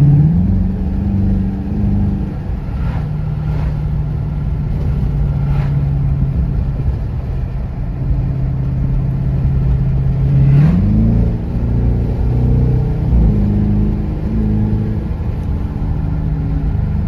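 Dodge Charger R/T's 5.7-litre HEMI V8 on its stock exhaust, valves open in sport mode, idling steadily. It is blipped briefly right at the start, then revved again about two-thirds of the way through, with the revs rising and stepping up and down for a few seconds before it drops back to idle.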